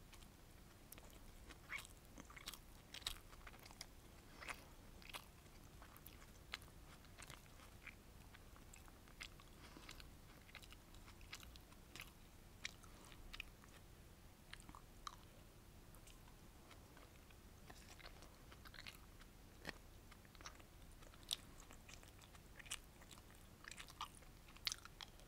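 Quiet, close-miked chewing of rice and sweet and sour battered fish, with many short, sharp clicks at irregular intervals. A plastic spoon scrapes and taps in a plastic takeaway container as food is scooped up.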